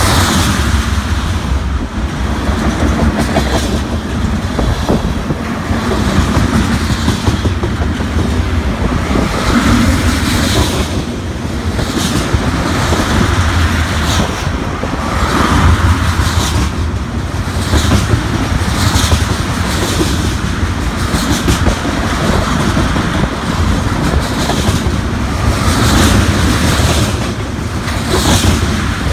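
BNSF ethanol train's tank cars rolling past, the wheels clacking over rail joints in a repeating rhythm over a steady low rumble.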